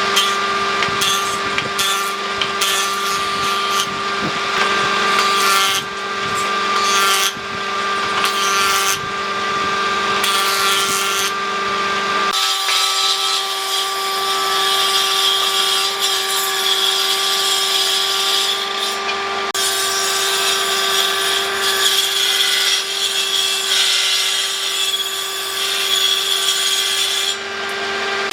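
Electric power tool running and cutting into dry stump wood: a steady motor whine under rough cutting noise. The sound changes abruptly about twelve seconds in, and the low end drops away.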